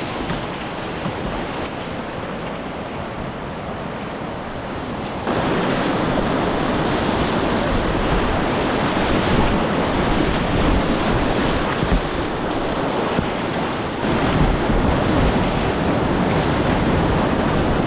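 Whitewater of a mountain river rushing steadily. It gets abruptly louder about five seconds in and again slightly louder near fourteen seconds.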